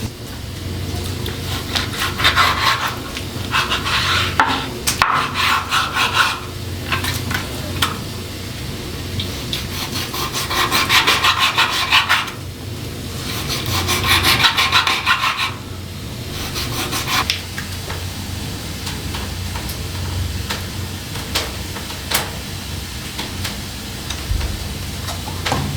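A hand tool rasping on wood in several spells of quick strokes, each lasting one to two seconds. The strokes stop about two-thirds of the way through, leaving a steady background with a few light knocks.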